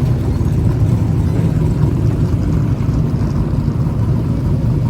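Dirt modified race cars' V8 engines running hard at racing speed, a loud steady rumble.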